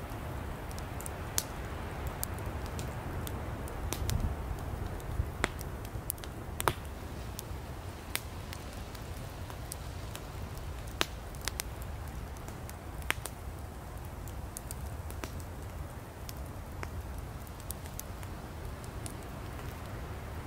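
Firewood burning in an open wood fire: a steady low rush of flame with sharp, irregular crackles and pops, a few of them louder.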